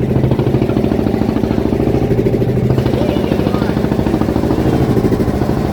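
Fishing boat's engine running steadily at constant speed, a fast, even chugging.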